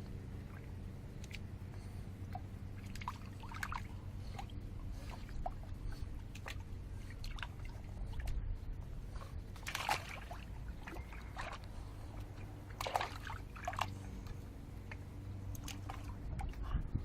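Water splashing and sloshing in a bird bath as a small Boston terrier–French bulldog mix plays in it, with scattered sharp splashes, the loudest about ten and thirteen seconds in, over a steady low rumble.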